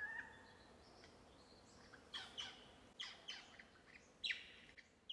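Wild birds calling: a short whistle at the start, then a run of sharp, quickly falling chirps.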